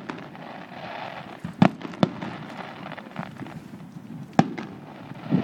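Aerial fireworks bursting: three sharp bangs, about a second and a half in, at two seconds and past four seconds, with smaller pops and crackle between.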